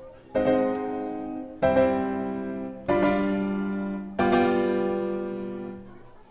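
Background piano music: four sustained chords struck about a second and a quarter apart, each left to ring and fade.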